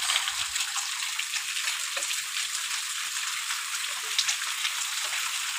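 Steady rain falling: an even hiss thick with many small drop ticks.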